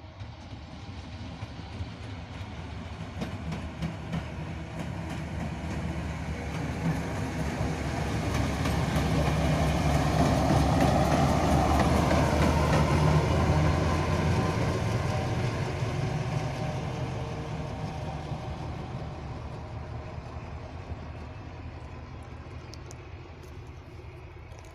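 A train passing on the tracks with a steady low engine hum and wheel clicks on the rails. It grows louder to a peak about halfway through, with a falling pitch as it goes past, then fades away.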